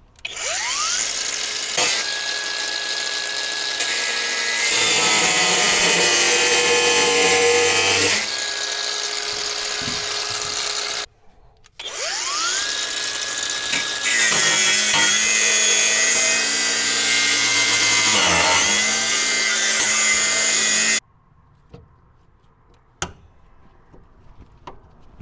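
Angle grinder with a cutting disc spinning up with a rising whine and cutting into rusted chassis steel in two long runs, its tone dropping and wavering while the disc is under load. It cuts off about eleven seconds in and again about twenty-one seconds in, followed by a few light ticks.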